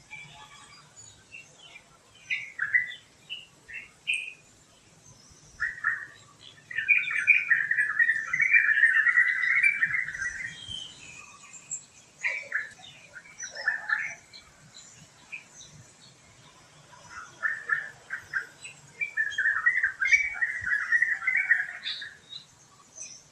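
Wild birds calling: scattered short chirps, with two longer runs of rapid chattering, one about seven seconds in and another about nineteen seconds in.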